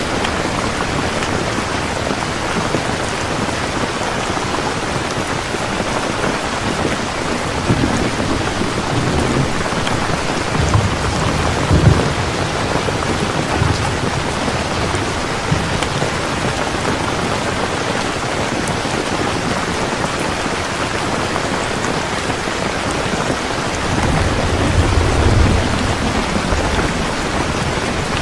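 Heavy rain falling steadily, with thunder rumbling twice: a rolling rumble about a quarter of the way in that peaks with a sharper clap, and another rumble near the end.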